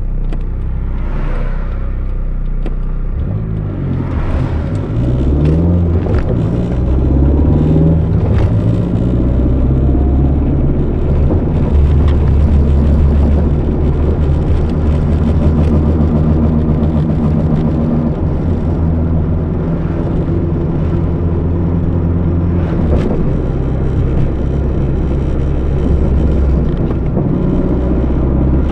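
1991 Nissan 200SX S13's turbocharged CA18DET four-cylinder engine, heard through its custom 3-inch exhaust, pulling hard. Its pitch climbs and drops back in a few steps, then holds loud and steady, eases off and picks up again near the end.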